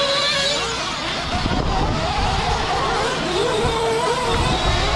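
Several 1/8-scale nitro RC truck engines running at once around a dirt track, their high-pitched whines rising and falling as the drivers get on and off the throttle.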